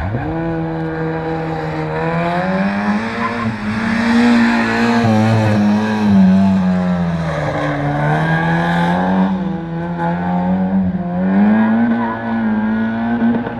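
A competition hatchback's engine revving hard and easing off as it is driven quickly around a cone course, its pitch climbing and falling several times with the gear changes and corners.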